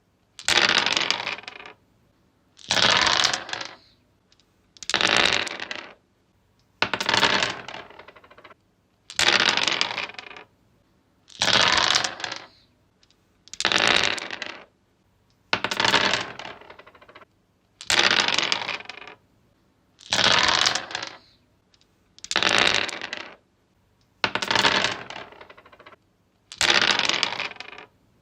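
Dice rolled again and again on a wooden surface, about a dozen throws, one every two seconds or so. Each throw is a sharp clatter that dies away in a few small rattles as the dice settle.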